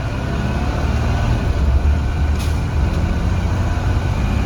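2017 Blue Bird Vision school bus running, a steady low engine rumble heard from inside the passenger cabin, with a brief faint hiss about two and a half seconds in.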